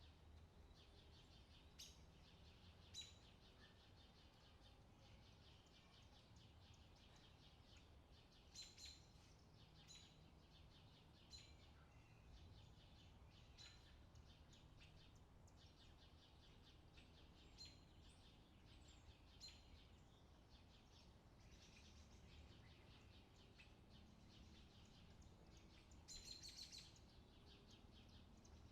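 Faint birdsong: several small birds chirping and trilling, with sharp single chirps scattered throughout and a louder cluster of calls near the end, over a faint low rumble.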